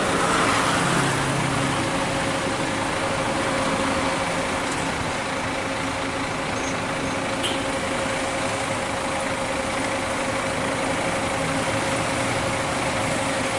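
Heavy diesel bus engine idling with a steady hum and a constant whine.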